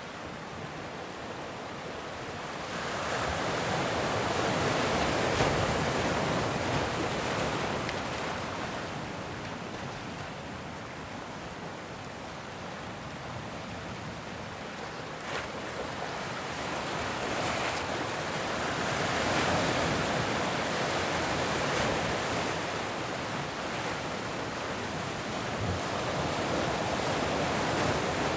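Ocean waves breaking and washing in surf, the rush swelling and fading twice as sets come in, with some wind on the microphone.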